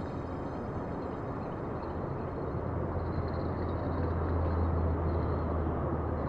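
Steady outdoor rumble of a distant engine, its low hum swelling about halfway through and then easing off.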